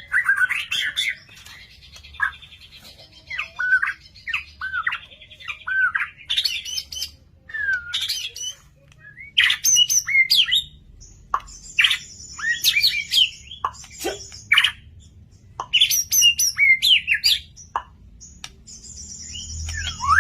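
A murai, a Copsychus songbird, singing a loud, varied song of whistled up- and down-slurs, quick chattering notes and buzzy high trills, in phrases with short pauses between them.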